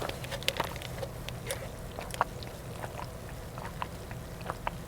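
Close-up chewing of crispy fried chicken tenders: irregular small crunches and mouth clicks.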